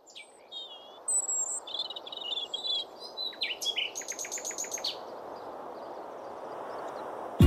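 Wild birds singing and chirping over a steady outdoor background hiss that fades in, with a rapid trill of repeated chirps about four seconds in.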